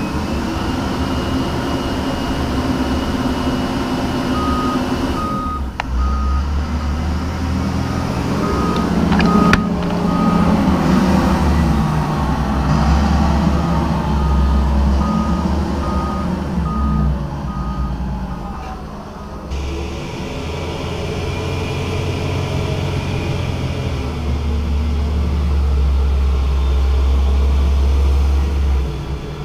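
Heavy diesel machinery running loudly with a reversing alarm beeping, about two beeps a second with short breaks, through the middle of the stretch.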